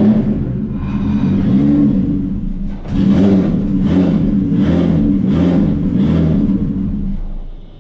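Nissan Skyline R32 drift car's engine revving, its pitch rising and falling in a string of quick blips about two-thirds of a second apart, then dropping away near the end.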